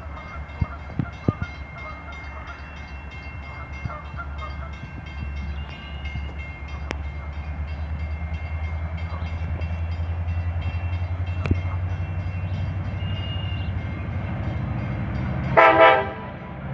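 Metra MP36PH-3S diesel locomotive approaching, its engine rumble growing steadily louder, with one short blast of its air horn near the end.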